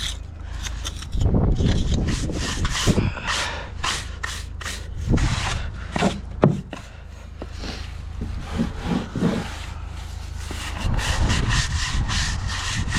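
Bricklaying work: a steel trowel scraping and spreading mortar, with irregular knocks and clicks as bricks are set and tapped into place.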